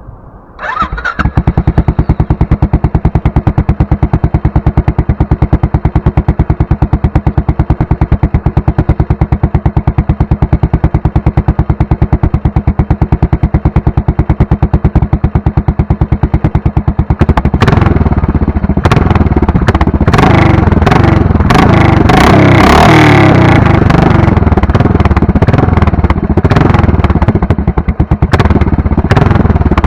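Royal Enfield Continental GT 535's single-cylinder engine with a megaphone exhaust, catching about a second in and idling with an even beat of exhaust pulses. From about two-thirds of the way through it is revved repeatedly, rising and falling in pitch.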